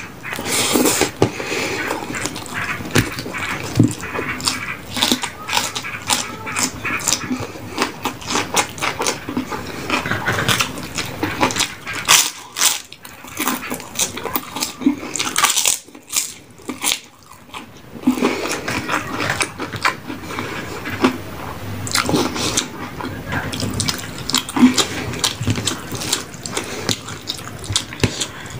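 Close-miked eating sounds: chewing and crunching crisp food, with many short irregular crackling bites and mouth noises, briefly quieter twice around the middle.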